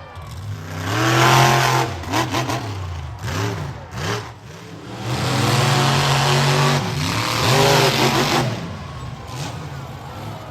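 Monster truck engine revving hard in repeated surges of throttle, pitch climbing and falling. The loudest pushes come about a second in and again from about five to eight seconds in.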